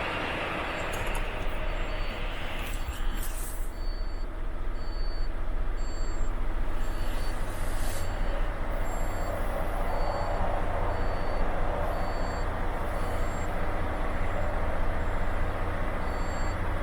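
Volvo FH 460 tractor unit's 13-litre straight-six diesel running and pulling harder about a second in. A reversing alarm beeps at a steady pace, with a few short air hisses from the brakes.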